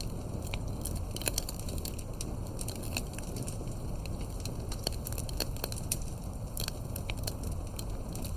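Wood fire burning and crackling, with frequent irregular sharp pops and snaps over a steady low rumble of the flames.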